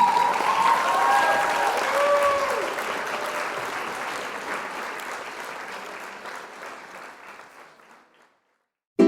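Crowd applause and cheering, with a few raised voices in the first couple of seconds, fading out gradually to silence about eight seconds in.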